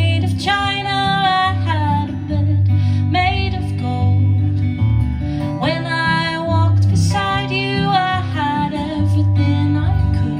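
Live song: a woman singing in held, wavering phrases over a strummed acoustic guitar.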